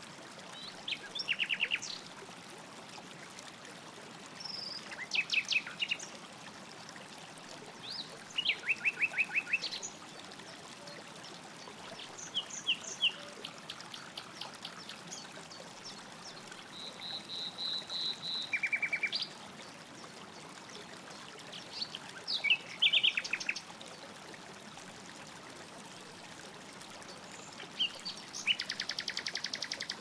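Songbirds calling in short bursts every few seconds: chirps, rapid trills and a run of evenly spaced notes, over the faint steady rush of a flowing stream.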